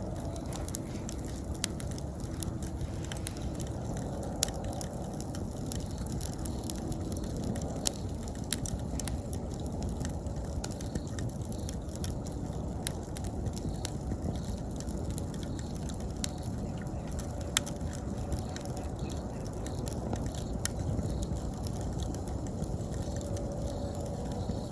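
Wood fire burning with a steady low rush of flame and frequent irregular crackles and sharp pops from the burning wood. Autumn insects chirp faintly in the background.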